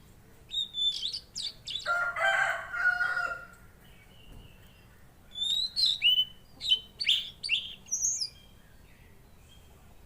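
Tledekan laut songbird singing: quick, high whistled notes that slur sharply downward, in two bursts. A lower, harsher chattering phrase comes about two seconds in.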